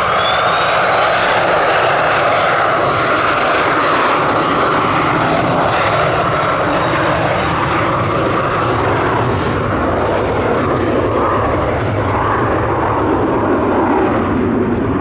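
Embraer Phenom 300's twin turbofan engines at takeoff power: a steady jet roar with a thin high whine that slides up at the start. The highest part of the sound thins out toward the end as the jet moves away.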